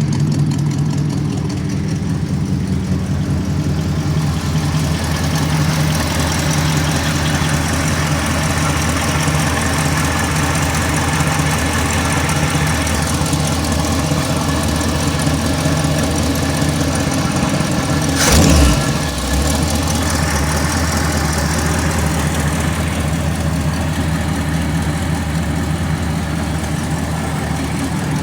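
1975 Ford F100's 302 V8 idling through Cherry Bomb glass-pack true dual exhausts, with the slight lope of a mild circle-track cam. A single brief thump about two-thirds of the way in.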